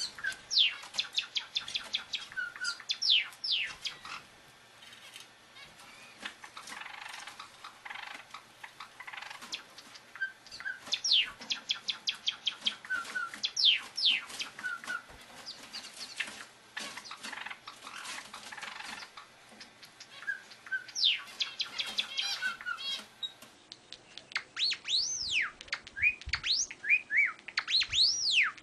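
Birds chirping and singing in bursts of quick notes and short downward-sweeping whistles, with the same run of calls coming round about every ten seconds. Near the end, rising-and-falling whistled notes take over.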